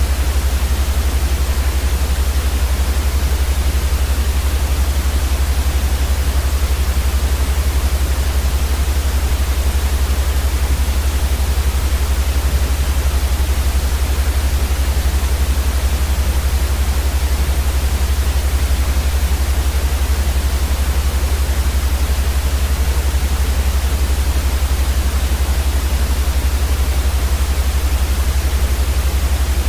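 Steady, unchanging white noise for baby sleep: an even hiss across the whole range with a strong deep rumble underneath.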